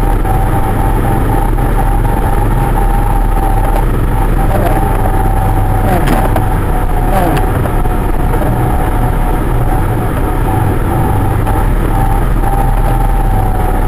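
Car cabin noise while driving slowly through a blizzard: a steady, heavy low rumble of engine, tyres and wind, with a steady thin whistle running over it.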